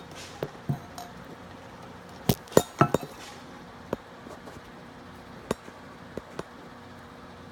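Sharp clinks and taps of hard objects, about ten in all, with the loudest cluster a little over two seconds in; no engine running.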